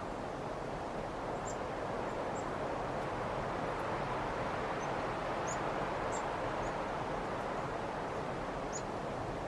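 Chickadees giving brief, high-pitched chirps every second or so over a steady rushing background noise.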